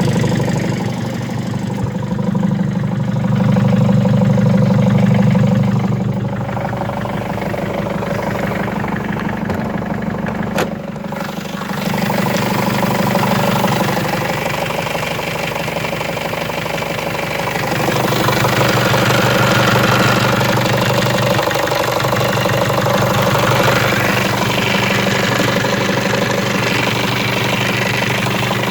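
Mercedes-Benz E220 CDI's 2.2-litre four-cylinder diesel running with a knock, which the owner takes for a crankshaft knock. A sharp click and a brief drop in the sound come about ten seconds in, and the sound grows brighter and fuller from about eighteen seconds in.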